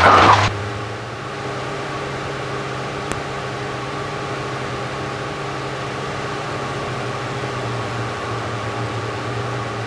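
Cessna 172's piston engine and propeller idling steadily at low power, a constant hum with no change in pitch.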